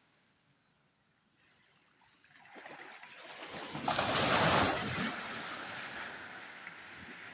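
A single wave breaking on the shore: the surf swells over a couple of seconds, crashes loudest near the middle, then washes back as a slowly fading hiss.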